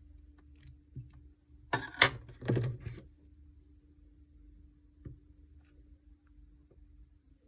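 Clear slime being squished and worked by hand, giving sticky clicks and pops. A quick flurry of them comes about two seconds in, with a few faint single clicks otherwise, over a faint steady hum.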